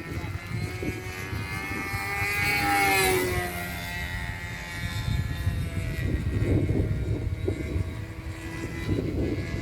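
O.S. .46 two-stroke glow engine of a radio-controlled model airplane in flight, its whine rising and then falling in pitch as it passes by, loudest about three seconds in.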